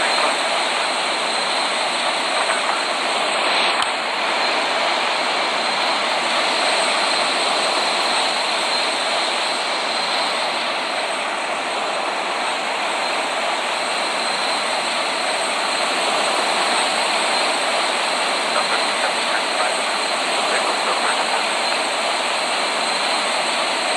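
Boeing 787 jet engines running steadily: an even rush of noise with a thin high whine over it.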